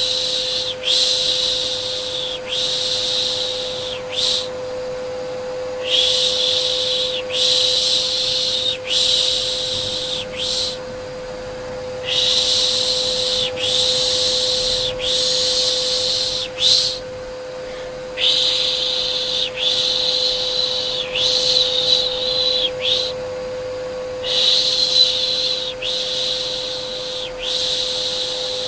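Rhythmic 'shh, shh' shushing to soothe a baby, in runs of about four shushes with short pauses between runs, over the steady hum of a vacuum cleaner.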